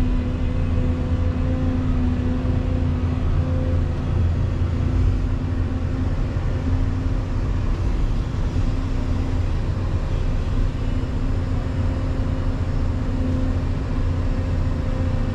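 Volvo EC220EL excavator's diesel engine running steadily under work: a continuous low drone with a tone that wavers slightly in pitch and strength.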